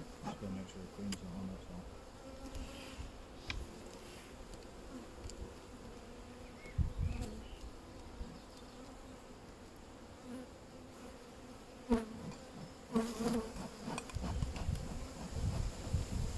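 Honeybees buzzing at an open hive, a steady low hum, with a few sharp knocks scattered through it.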